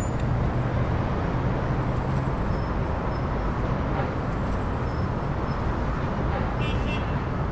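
Steady street ambience with traffic noise: a constant low rumble with a low hum that is strongest in the first couple of seconds.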